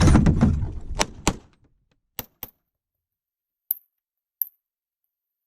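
Pistol shots fired at speed on a timed competition stage. A rapid string runs through the first second and a half, then a quick pair of shots and two single shots follow, each a short sharp crack with silence between.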